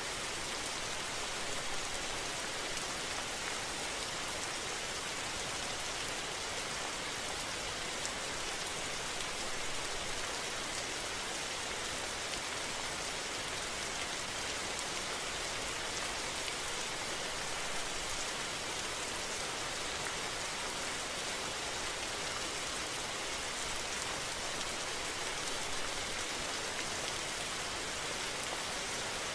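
Steady rain falling, an even hiss that does not let up, with a few faint drop ticks.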